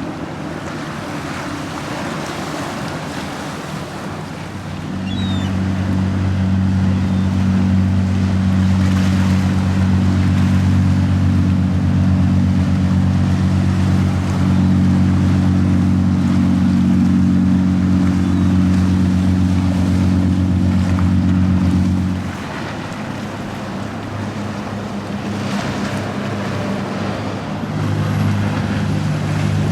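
Boat engines running with a deep, steady drone over wind and surf; the drone grows louder about five seconds in, cuts off abruptly past the two-thirds mark, and a quieter engine hum comes back near the end.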